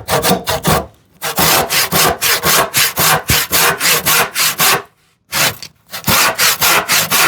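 10 TPI Spear and Jackson hand saw, filed to rip teeth, crosscutting a glued-up wooden panel near the end of the cut. It makes quick short strokes, about four a second, with brief pauses about a second in and about five seconds in.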